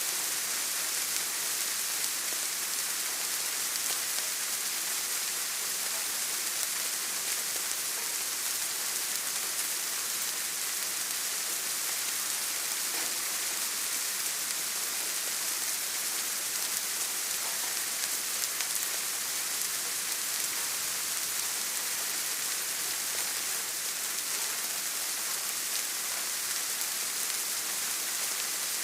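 Steady rain falling on a surface: an even hiss of many small drops, without a break.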